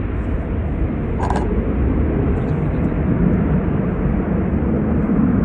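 Airplane engine noise: a steady low rumble that holds evenly throughout, with a brief click about a second in.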